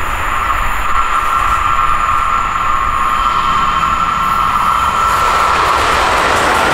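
Train passing close by at speed: a loud, steady rush of wheels on the rails with a steady high tone running through it.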